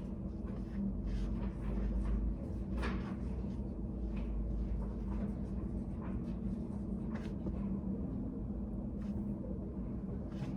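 Study cafe room ambience: a steady low hum with scattered light clicks and taps every second or two.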